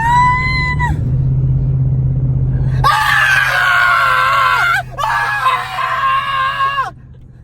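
Excited high-pitched screaming in a moving truck cab: a held, rising squeal that breaks off about a second in, then two long screams from about three seconds in, over a steady engine and road drone.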